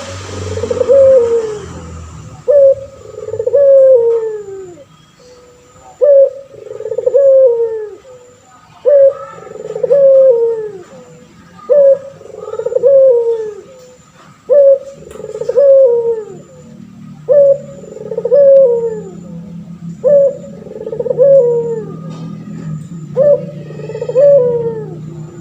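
Male puter pelung, a domestic collared dove, cooing over and over: each phrase a short sharp note followed by a longer falling coo, repeated about every two and a half to three seconds.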